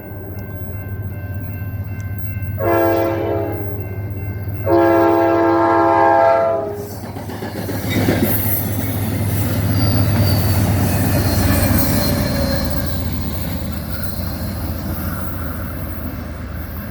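Amtrak Cascades train horn sounding a short blast and then a longer one for the grade crossing, followed by the train passing with a loud rush of wheels on rail and a thin high whine partway through, slowly fading.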